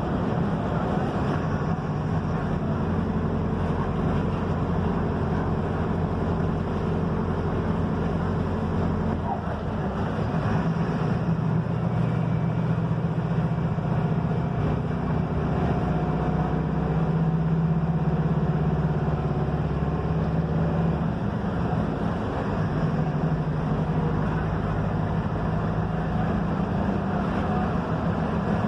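Mercedes-Benz OF-1721 BlueTec 5 bus's front-mounted diesel engine running under way, its note changing about nine seconds in and again after twenty seconds, with road noise from the bus rolling over a dirt road.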